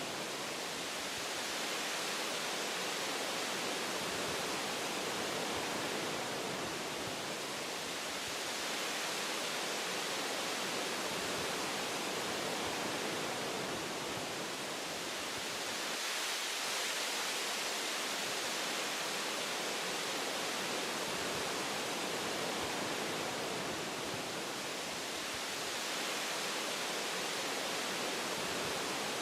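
Wind blowing through forest tree branches, a steady rushing hiss that swells and eases gently every several seconds.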